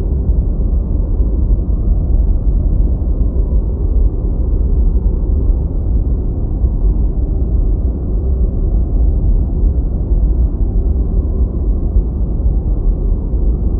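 Deep white noise: a steady, even rushing hiss weighted heavily toward the bass, with little treble and no changes.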